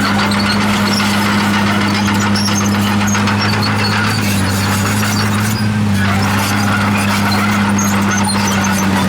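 Komatsu D51PX crawler bulldozer working: its diesel engine runs at a steady pitch under the high squeaks and grinding of the steel tracks.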